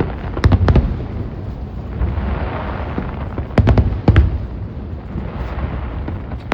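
New Year fireworks bursting, two quick clusters of several sharp booms each, about half a second in and again about three and a half seconds in, over a steady background rumble.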